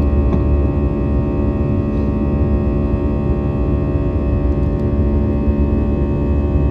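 Steady cabin drone of an Airbus A320-214: engine hum with several steady tones over a strong low rumble.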